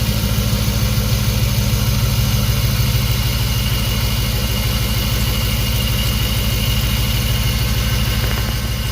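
LS V8 swapped into a Chevrolet C10 pickup idling steadily with an even low pulse, running after a cold start on its first run in three to four months.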